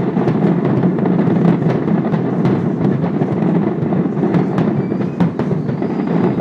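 Fireworks bursting in a dense, continuous barrage: overlapping booms make a steady rumble, with many sharp cracks on top.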